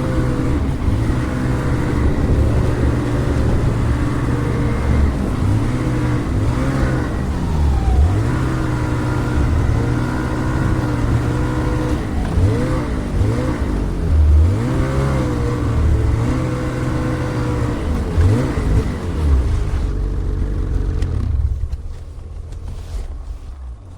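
Snowmobile engine running under a varying throttle, its pitch rising and falling over and over as it speeds up and eases off. The sound dies away over the last few seconds.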